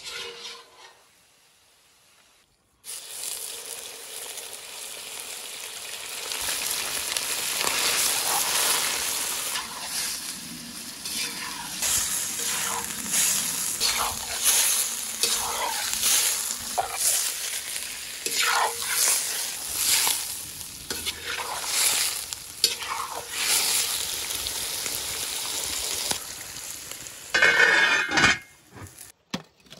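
Cubes of beef liver frying in hot oil in a cast-iron cauldron, a loud steady sizzle starting about three seconds in, with repeated scraping strokes of a metal ladle stirring them. Near the end the metal lid is set on the pot with a short clank.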